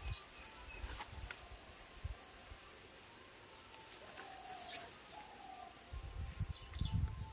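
Small birds chirping, with a quick run of about six chirps in the middle. Low thumps near the end.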